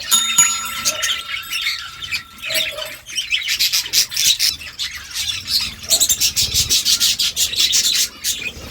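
Budgerigars chattering and warbling in a fast, dense stream of short high notes. A steady held tone sounds through roughly the first three seconds.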